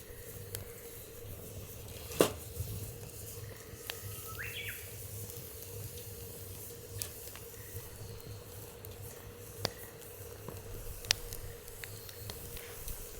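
Wood fire crackling in a fire pit, with scattered sharp pops, the loudest about two seconds in. A bird gives one short rising call about four seconds in.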